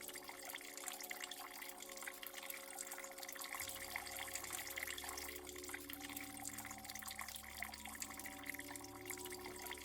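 Water running and splashing, full of small drip-like ticks, over a soft steady ambient music drone; a low note joins the drone about three and a half seconds in.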